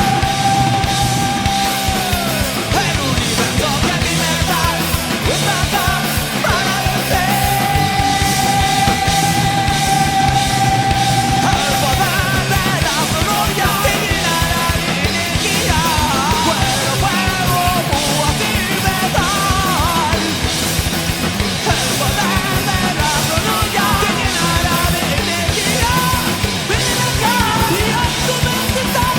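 Heavy metal band playing a song: dense full-band sound with long, high held notes over it that bend and waver, most of all in the second half.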